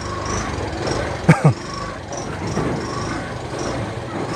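Motorcycle ride with steady engine and road noise, and a brief loud sound sliding sharply down in pitch about a second in.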